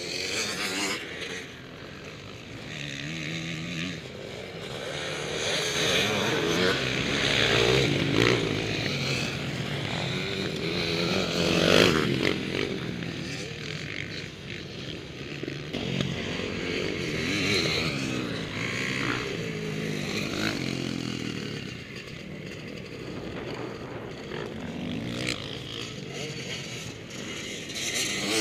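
Motocross motorcycles racing past, their engines revving up and down over and over as riders accelerate and shift, with the loudest pass about twelve seconds in.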